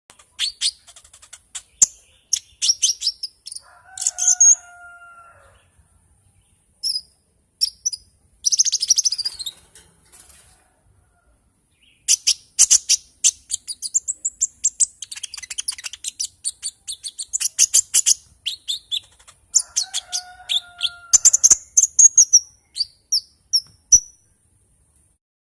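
A konin songbird singing in fast runs of high chirps and trills, broken by short pauses, with a lower, level whistled note twice.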